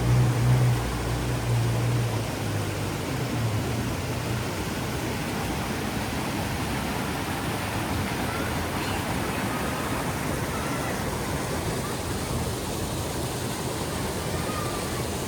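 Waterfall rushing, a steady even roar of falling water. A low hum sits under it for the first few seconds and fades out by about four seconds in.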